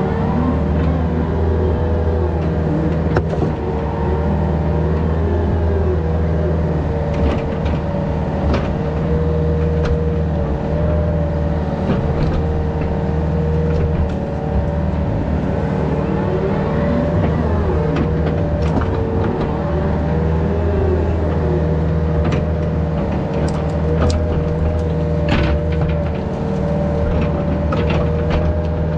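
Yanmar VIO50 mini excavator's diesel engine running steadily under working load, with a whine that wavers in pitch as the hydraulics are worked and scattered knocks and clanks from the machine at work.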